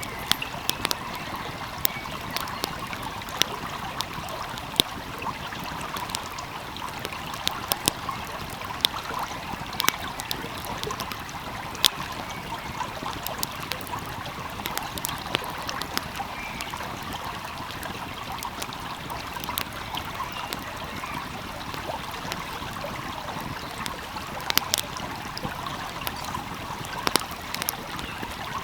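Wood fire crackling, with sharp irregular pops and snaps, over the steady rush of a flowing stream.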